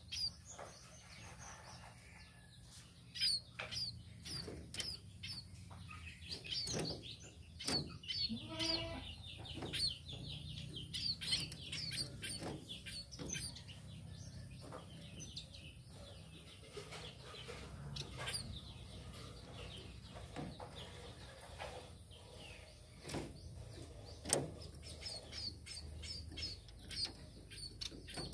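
Tame munias (burung pipit) chirping in short, high calls, repeated irregularly, with sharp clicks scattered among them. A lower, falling call comes about a third of the way in.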